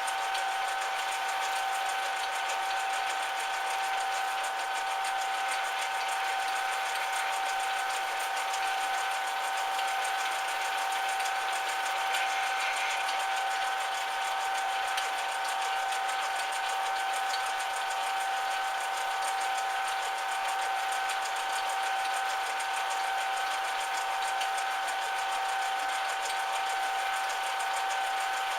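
Metal lathe running steadily, its drive and gears giving a constant whine with two high steady tones over mechanical hiss.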